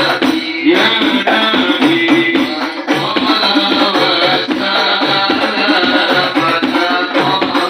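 Hadroh music: rebana frame drums beating a steady rhythm with rattling percussion and a melody over it.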